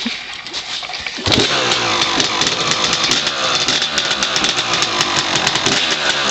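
A 1994 Honda CR250's single-cylinder two-stroke engine, fitted with an FMF pipe and silencer, catches about a second in on a choked cold start and then runs steadily.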